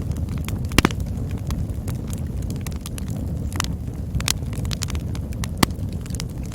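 Campfire burning: a steady low rumble under sharp, irregular crackles and pops of burning wood. The loudest are a quick double pop about a second in and another sharp pop near the end.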